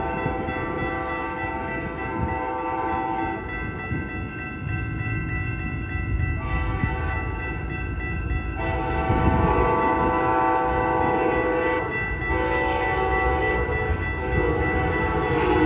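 Amtrak passenger train standing at the station with its diesel locomotive running: a steady low rumble, with sustained tones that drop back a few seconds in and come back louder in the second half.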